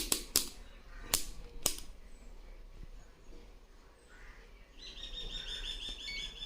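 Four sharp clicks in the first two seconds, a multimeter's rotary selector being switched to continuity, then from about five seconds in a bird chirping in a fast run of short high notes.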